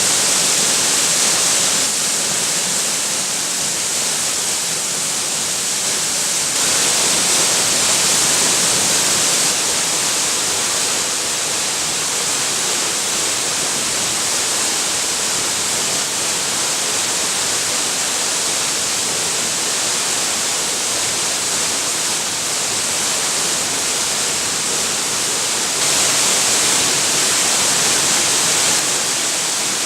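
Waterfall: a steady rush of falling water. It steps up a little louder and brighter for a few seconds about six seconds in, and again near the end.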